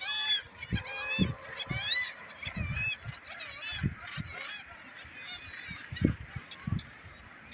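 A seabird colony calling: many overlapping harsh, wavering bird calls at once, thinning out toward the end. Short low thumps come and go beneath them, the loudest about six seconds in.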